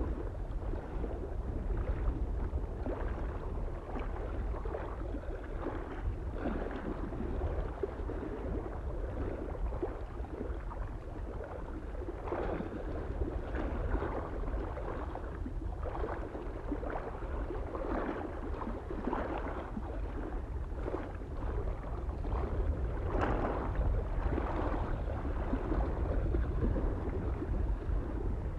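Small waves lapping and splashing irregularly against a lake shore, with a steady low wind rumble on the microphone underneath.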